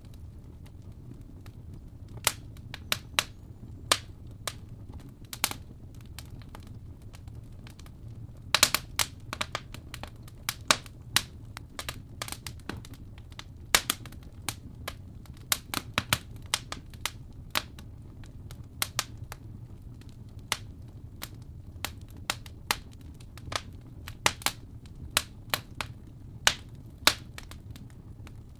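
Fire burning in a fireplace: irregular sharp crackles and pops over a low, steady rumble, with a quick cluster of pops about nine seconds in.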